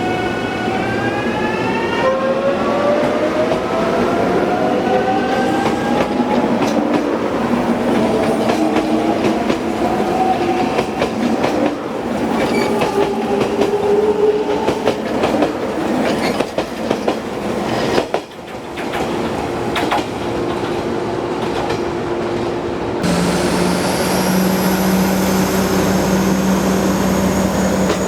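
A locomotive-hauled passenger coach running on the rails, its wheels clicking over rail joints, with several tones gliding upward in pitch early on. About 23 s in the sound changes abruptly to a steady low hum with a faint high whine that rises slowly.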